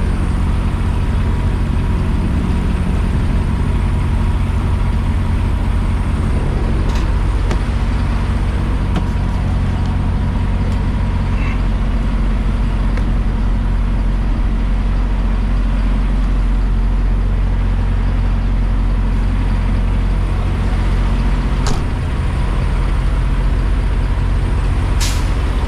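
Semi-truck's diesel engine idling steadily, with a few short clicks about 7, 22 and 25 seconds in.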